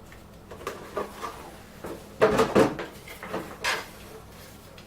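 Pieces of a boat display stand being handled and clipped together: a series of light clicks and knocks, loudest about two and a half seconds in.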